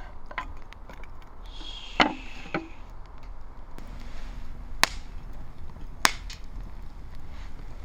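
Three sharp chopping strikes on wood, spread a second or more apart, the first preceded by a short hiss.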